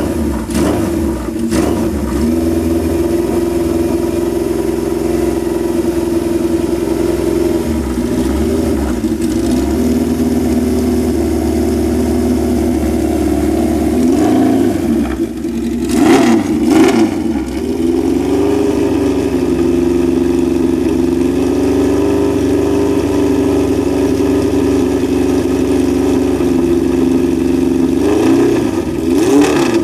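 Kawasaki drag bike engine running at a steady idle, with short blips of the throttle about a second and a half in, a stronger burst of revving around the middle, and another blip near the end.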